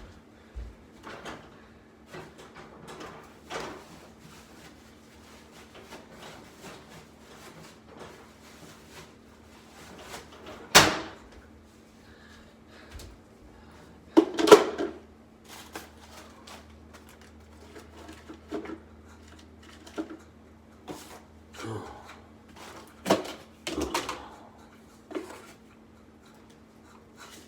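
Scattered knocks, taps and clatters of household things being handled, like cupboards, drawers and dishes, over a steady low hum. The two loudest knocks come about eleven and fourteen seconds in, and there is a quick run of them near the end.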